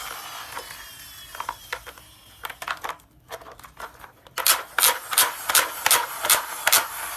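A few scattered sharp clicks and taps, then a quick regular run of about eight loud clicks, roughly three a second, in the second half.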